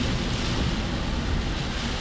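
Steady road noise of a car driving through heavy typhoon rain and wind, heard from inside the car: a deep rumble under a constant hiss.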